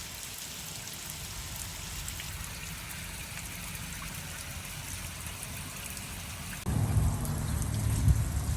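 Water running down a rain chain, trickling and splashing steadily through its links or cups. About two-thirds of the way through it cuts abruptly to a louder, deeper rush of heavier flow.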